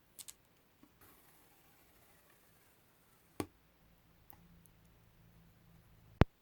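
Scattered sharp, close-up clicks and taps from small objects being handled, with a faint scratchy rustle about a second in; the loudest click comes just before the end and the sound cuts off right after it.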